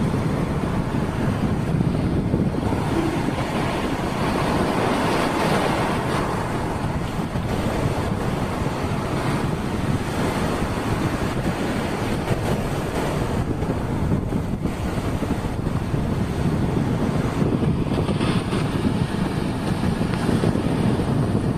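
Strong wind buffeting the microphone over the steady wash of breaking surf, with a swell of wave noise a few seconds in.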